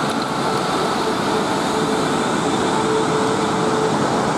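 South Western Railway electric multiple-unit trains, a Class 450 among them, running past on adjacent lines: a steady rush of wheels on rail with a steady whine from the train's motors.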